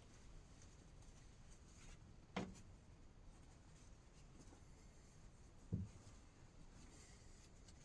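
Near silence with two soft knocks, one about two and a half seconds in and another about six seconds in.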